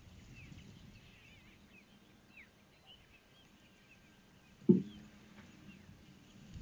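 Small birds chirping in quick, high notes. A single sudden low thump with a brief ring comes about five seconds in and is the loudest sound.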